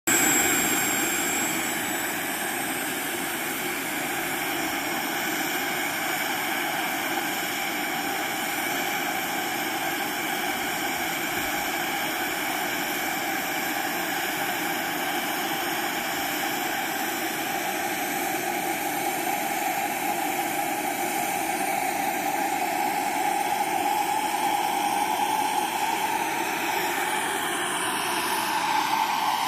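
Small gas-turbine engine of a radio-controlled scale EC 145 helicopter running with a steady whine and hiss. About two-thirds of the way in, the whine starts to rise slowly in pitch and the sound grows a little louder.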